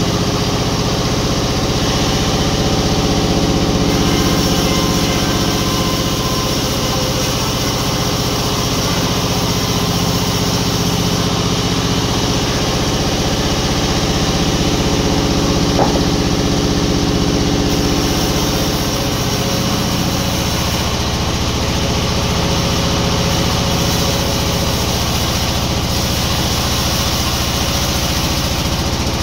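Sawmill machinery running steadily with an engine-like hum, with one brief sharp click about halfway through.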